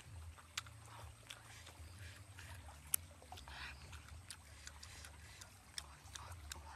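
A person chewing a mouthful of grilled fish, with soft wet mouth noises and scattered small clicks and smacks, one sharper click about three seconds in, over a low steady hum.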